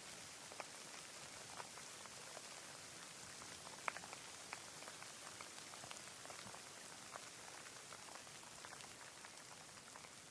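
Light rain: a steady faint hiss with scattered individual drops ticking, one louder drop about four seconds in.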